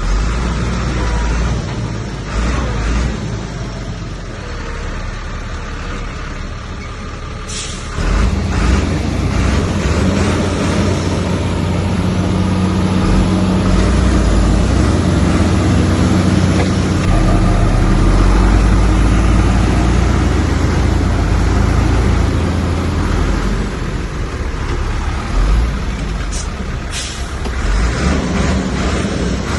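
Heavy diesel earthmoving machinery running and working, a deep continuous engine drone that gets louder about eight seconds in, with a few brief hisses.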